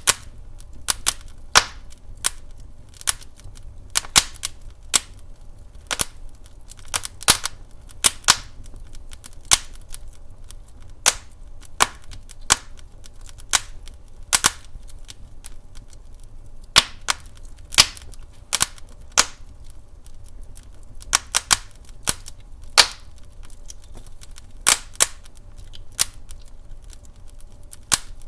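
Wood fire crackling in a fireplace: sharp pops at an irregular pace, roughly one or two a second, over a low steady rumble.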